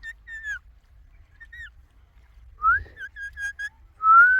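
Indian ringneck parrot giving thin whistled calls: a short falling note at the start, a rising whistle followed by four quick notes about three seconds in, and another rising whistle near the end.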